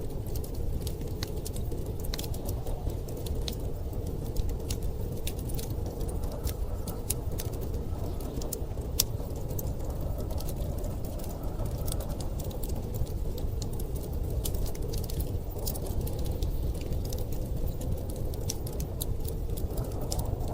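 Wood fire crackling with frequent sharp pops, two of them louder, about four and nine seconds in, over a steady low rumble of blizzard wind.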